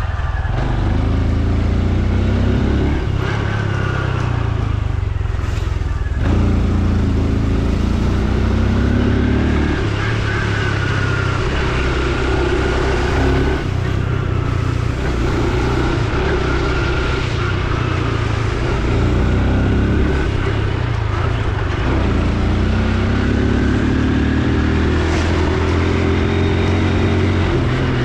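Honda Super Cub C125's 125 cc single-cylinder engine running under way, its pitch rising several times as the bike accelerates, over a steady rushing noise.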